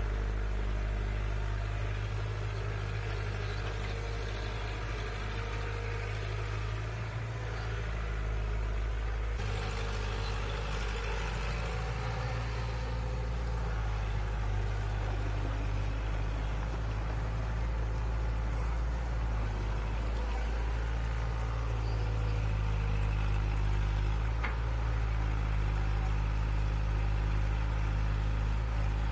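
An engine running steadily with a low, even hum, its load rising slightly about halfway through.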